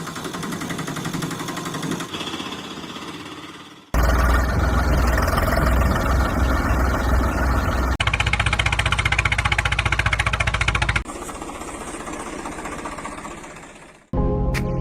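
A motor running with a fast, even chugging, in several short edited clips that each start and stop abruptly. The loudest stretch runs from about four to eleven seconds in.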